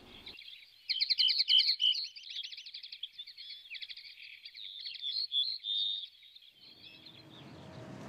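Small songbirds chirping and trilling in a rapid series of high notes. Near the end a low rumble rises beneath them.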